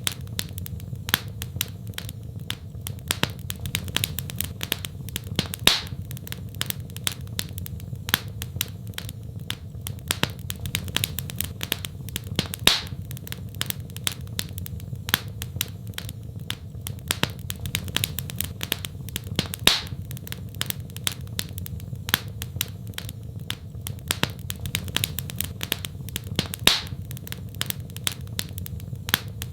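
Wood fire crackling in a fireplace: a constant patter of small snaps and pops over a steady low rumble, with a louder pop about every seven seconds.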